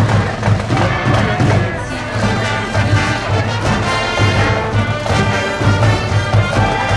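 School brass band playing a baseball cheering tune, with brass instruments over a steady, regular drum beat.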